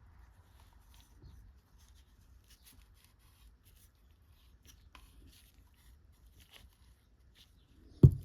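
Faint small scratching and clicking sounds, then one loud, short low thump near the end.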